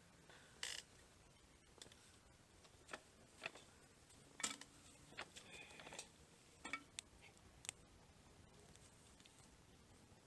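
Near silence broken by a dozen or so quiet, irregular clicks and light taps, the loudest about halfway through.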